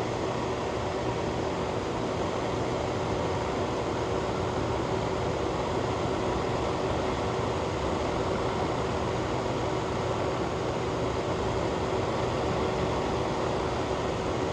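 Ventilation fan running steadily: an even whoosh of moving air with a faint steady hum underneath.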